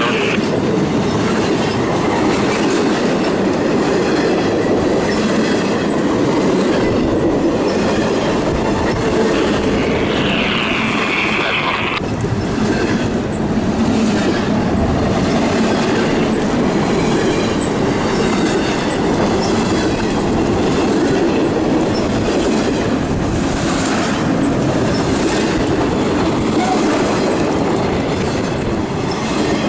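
CSX double-stack intermodal freight train passing close by: steady wheel-on-rail noise and clatter from the well cars, with a brief high wheel squeal about ten seconds in that cuts off suddenly.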